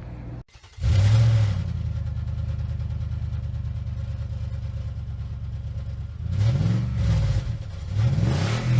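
Car engine coming in suddenly about a second in and settling to a steady idle, then revved briefly three times near the end, its pitch rising and falling with each blip.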